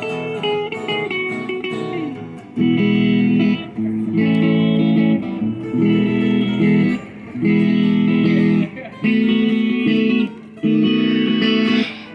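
Country band playing an instrumental break led by guitar. Single picked notes come first. From about two and a half seconds in, loud chords ring in repeated bursts about every second and a half.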